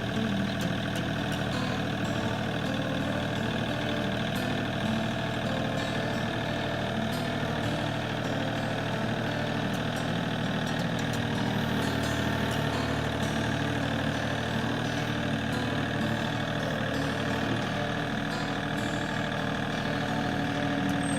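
Tractor engine running steadily while the tractor works a scoop with its bucket.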